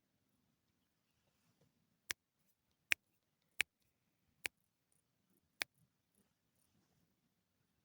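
Five sharp, separate clicks, unevenly spaced over about three and a half seconds, with faint low background noise between them.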